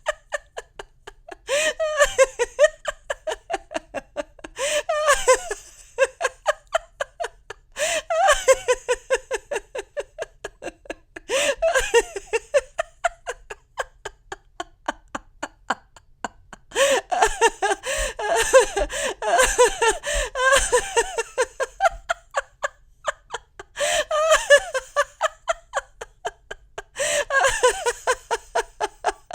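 Young women laughing in repeated bouts of quick breathy giggles and snickers, each a few seconds long with short pauses between; in the middle bout several voices laugh together.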